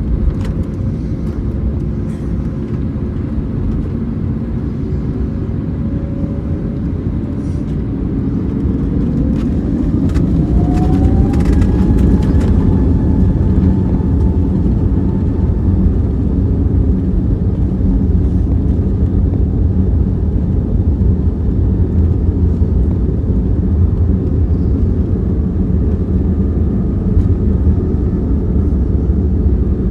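Airbus A321neo cabin noise from its Pratt & Whitney geared turbofans: a steady low rumble, then about eight seconds in the engine whine rises in pitch and holds as the rumble grows louder, the engines spooling up to takeoff thrust.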